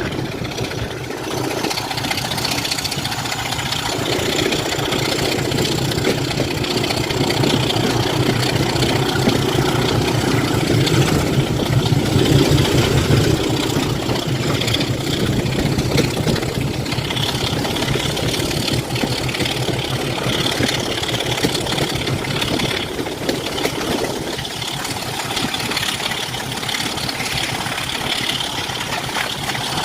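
Diesel locomotive engine running steadily, growing louder toward the middle and easing back near the end.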